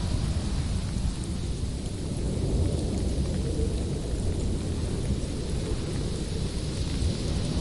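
Howling winter wind: a steady low rumble with a fainter hiss on top, swelling and easing slightly.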